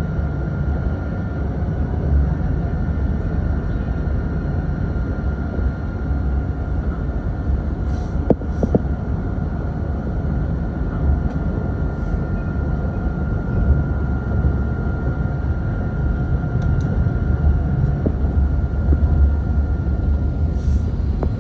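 Dubai Tram running, heard from on board: a steady low rumble with a thin steady whine and a few light clicks. It cuts off suddenly at the end.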